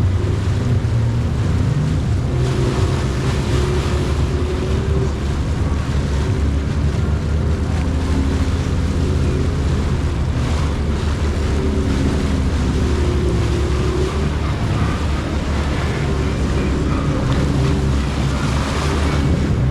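Jet ski engine running steadily under way, with the rush of water spray and wind buffeting the microphone.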